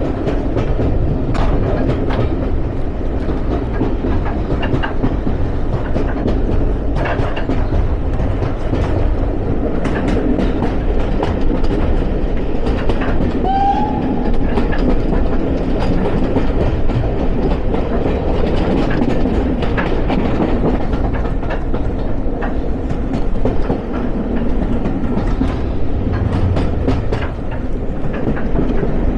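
Railway carriage running along the track: a steady rumble from the wheels with frequent sharp clicks over the rail joints, and a brief squeal about halfway through.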